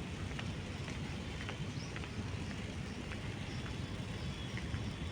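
Outdoor ambience: a steady low rumble with a few faint, short ticks scattered through it.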